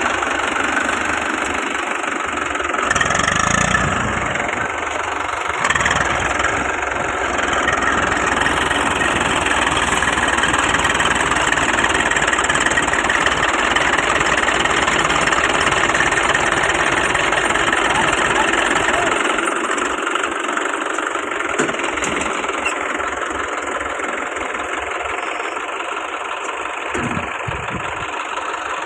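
Diesel tractor engine running steadily. Its deep low rumble eases about twenty seconds in.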